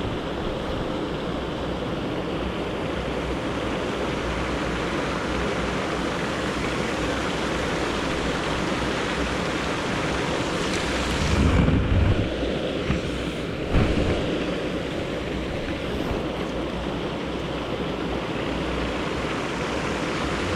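Steady rushing noise of wind on the microphone, with a few louder low buffets between about eleven and fourteen seconds in.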